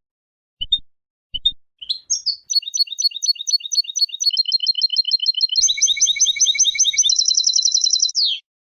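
European goldfinch singing one song phrase: three short separate notes, then a fast run of twittering notes and rapid trills, ending with a quick downward slur near the end.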